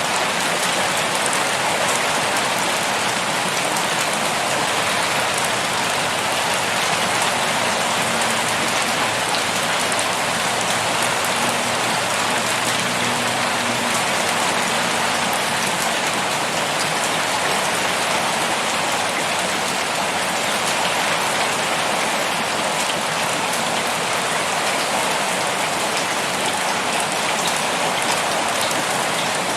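Heavy rain pouring steadily, a dense even hiss of many drops.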